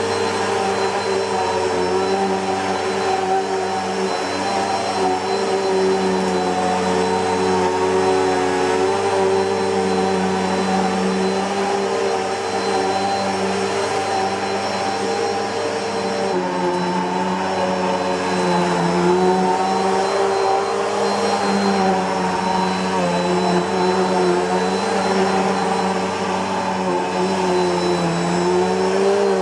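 Bissell PowerForce Helix Turbo (model 2190) bagless upright vacuum cleaner running steadily, its motor hum carrying a thin high whine. About halfway through the pitch shifts slightly and then wavers up and down.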